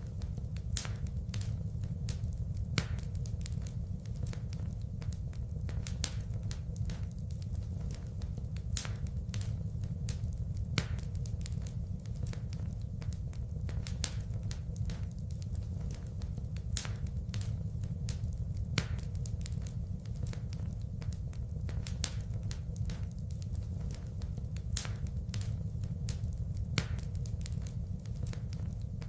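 Wood fire burning in a fireplace: irregular sharp crackles and pops of burning wood over a steady low rumble.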